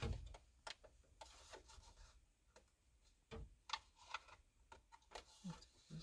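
Faint, scattered light clicks and scraping of hand work with a screwdriver at a pickup's steering wheel, prying at the release that frees the retaining pins.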